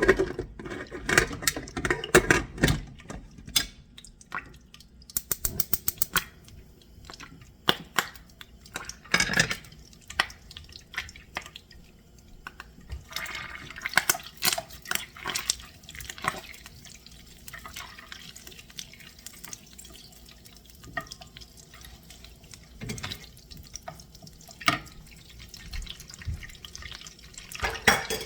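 Kitchen sink: tap water running and dripping, with scattered sharp knocks and clicks throughout and a quick run of ticks about five seconds in.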